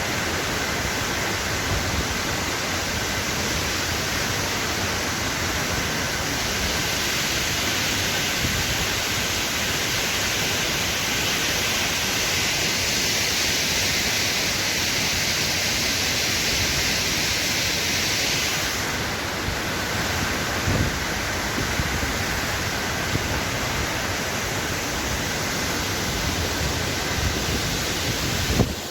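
Steady roar of the Burkhan-Bulak waterfall, a constant rush of falling water. Its hiss eases a little about two-thirds of the way through, and there is a soft knock near the end.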